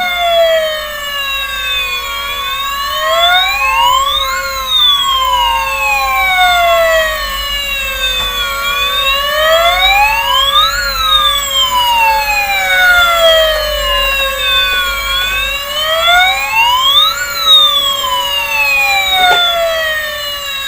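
A battery-powered toy fire ladder truck's electronic siren wailing over a steady tone. It rises and falls slowly about three times, each rise quicker than the fall.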